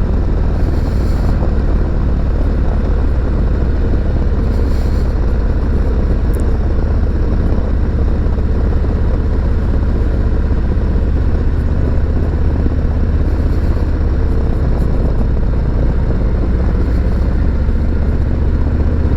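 Harley-Davidson 2021 Road Glide Special's Milwaukee-Eight V-twin running steadily through S&S MK45 slip-on mufflers, with a continuous low rumble.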